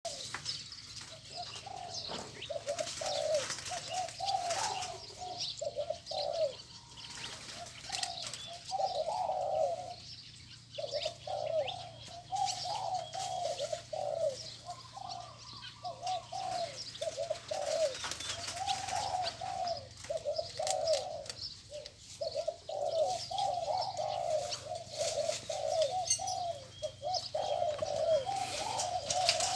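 Spotted dove cooing over and over in a continuous run of phrases, with thin chirps from smaller birds above it.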